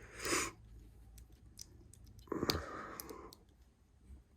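Small plastic Lego pieces clicking and tapping as they are handled and fitted together, many light clicks throughout. There are two brief soft whooshing noises, one near the start and one about two and a half seconds in.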